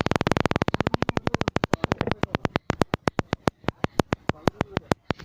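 A rapid, even train of sharp clicks, very fast at first and slowing gradually.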